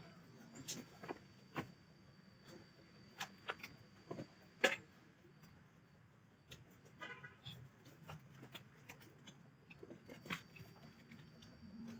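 Scattered light clicks and knocks of handling work, the sharpest about four and a half seconds in, with a brief buzzing rattle about seven seconds in, over a faint steady high whine.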